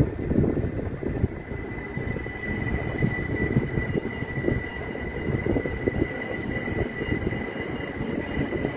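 Southern electric multiple unit running slowly through the station directly below, its wheels rumbling on the rails, with a steady high whine throughout.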